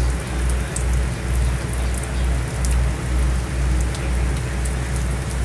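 Rain falling, with scattered drops ticking sharply over a steady patter, and a low rumble pulsing about twice a second underneath.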